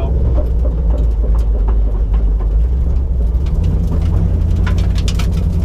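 1989 Mustang GT's 5.0 V8 running steadily at low speed, heard from inside the cabin, with scattered light clicks and rattles over the low drone.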